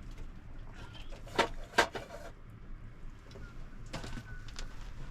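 Two sharp knocks a little under half a second apart, near the middle.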